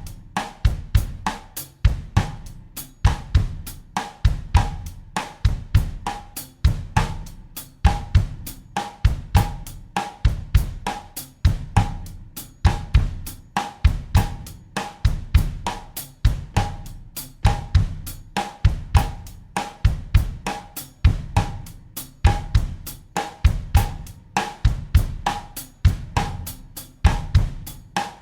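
Acoustic drum kit playing a steady bossa nova groove at 100 BPM in 4/4: bass drum, rim or snare strokes, hi-hat and cymbal in an even, repeating pattern.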